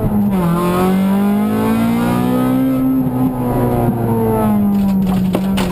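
Honda Civic VTi rally car's four-cylinder engine heard from inside the cabin at speed. The revs dip briefly at the start, like a gear change, climb under load for about three seconds, then ease off and hold steady. A couple of sharp clicks come near the end.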